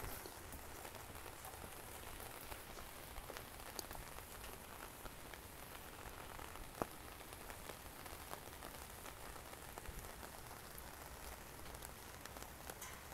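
Steady rain falling on surfaces, an even hiss dotted with small drip ticks, with one sharper tick about seven seconds in.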